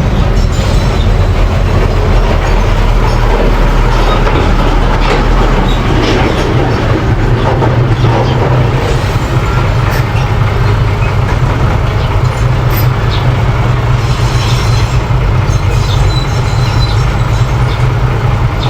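Mini crawler bulldozer's diesel engine running steadily, with scattered clanks from its steel tracks and blade as it works.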